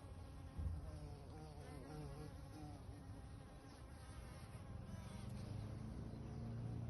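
Bees buzzing around sunflowers, a wavering wingbeat hum that drifts in pitch and grows louder near the end.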